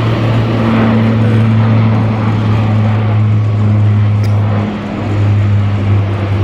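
Aircraft engines running steadily: a strong low hum under a broad rumble, dipping briefly about five seconds in.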